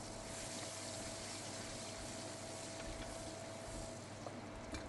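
Blended dried-chilli paste frying in hot oil with the sautéed spice base: a steady, quiet sizzle and bubbling, with a faint steady hum underneath.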